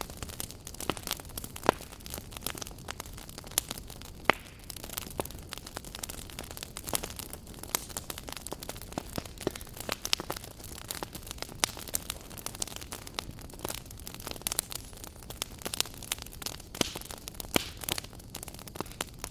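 Wood fire burning in a fireplace, crackling with many sharp, irregular pops over a steady low rumble and hiss.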